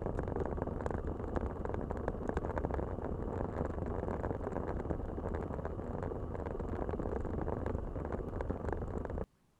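Riding noise picked up by a Drift Ghost 4K action camera's front microphone under a glued-on furry windscreen: a dense low rumble of wind and road with many small rattles and ticks, and little high end. It cuts off abruptly near the end.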